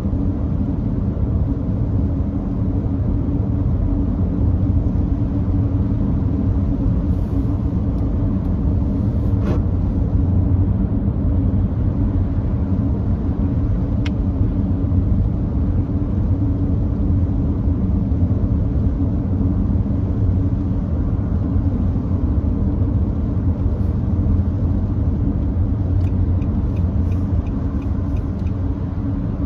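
Steady road and tyre rumble heard inside the cabin of a Nissan Note e-POWER cruising on a wet expressway. A short run of faint ticks comes near the end.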